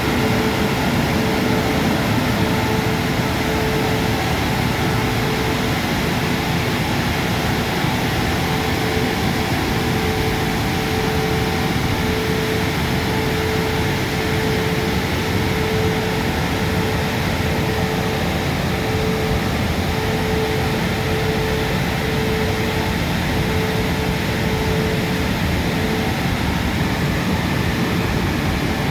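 Christ Genius Vitesse rollover car wash running steadily: a continuous rushing noise with a pulsing hum that stops near the end.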